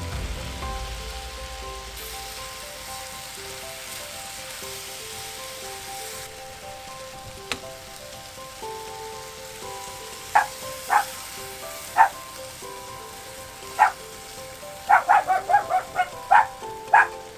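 Food sizzling faintly in a frying pan under soft background music. From about ten seconds in, a dog barks in short sharp yelps, about a dozen, bunched close together near the end.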